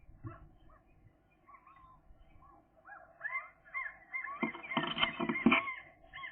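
Young gull chicks calling: a run of short, curved, whistling peeps that grow louder and crowd together near the end.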